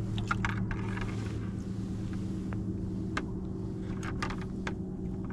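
Boat motor running steadily at low speed, a constant low hum, with a few sharp clicks and taps over it.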